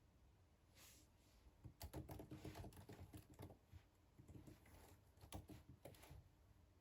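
Typing on a computer keyboard: two short runs of quick, soft keystrokes.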